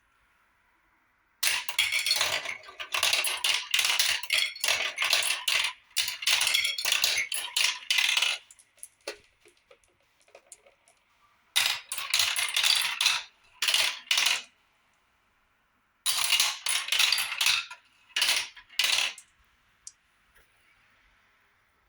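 Marbles clattering and clicking as they roll down a marble run. The sound comes in three bursts of several seconds each, with a few scattered clicks and short near-quiet gaps between them.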